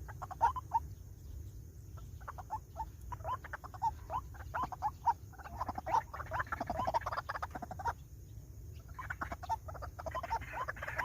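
White-breasted waterhen calling: quick repeated croaking notes, several a second, in bouts. There is a short pause about eight seconds in, then a denser, more overlapping bout.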